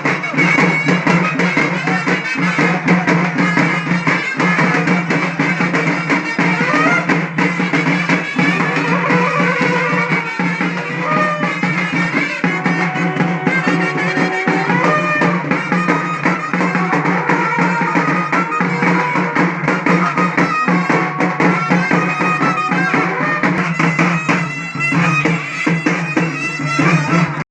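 Festival band music: drums beating a fast, dense rhythm while a reed wind instrument plays a melody of held notes over a steady drone.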